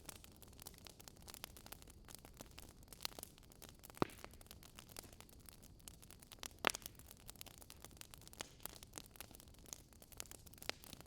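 Wood fire crackling: a soft steady hiss with irregular small snaps and two louder pops.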